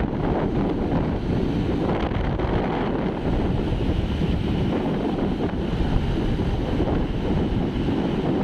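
Wind buffeting the microphone: a steady, dense low rumble with no let-up.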